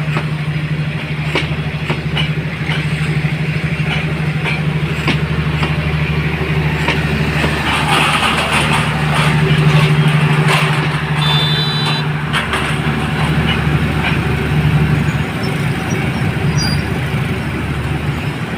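A train's diesel locomotive engine runs with a steady low hum as the train comes into the station. Wheels click over rail joints in the first few seconds. A hiss swells about eight seconds in, and a brief high squeal follows a few seconds later.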